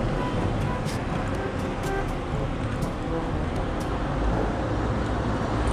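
Steady wind rush on the microphone and street noise while riding a bicycle through town, with a few faint clicks.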